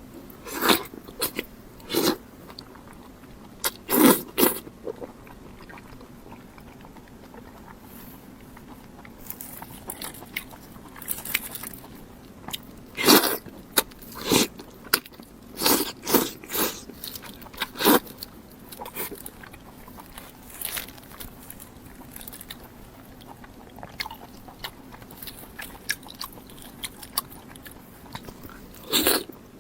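Close-miked biting and chewing of pork mesentery fat (鸡冠油): irregular crunchy bites, the loudest about 4, 13, 16 and 18 seconds in, with quieter chewing between.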